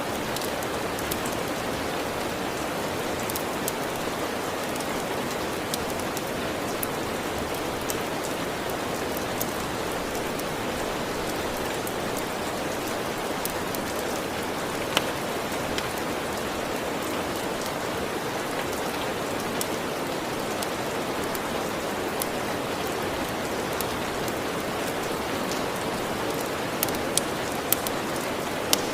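Steady rain ambience with scattered sharp crackles of a log fire, several coming in quick succession near the end.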